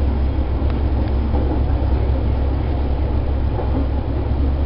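Diesel railcar running along single track, heard from inside: a steady low engine drone under the rumble of the wheels on the rails.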